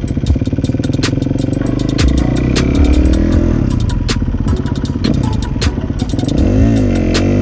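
Kawasaki KX250 dirt bike engine running under way, revving up in pitch through the middle and rising and falling several times near the end, with a rapid clicking clatter throughout.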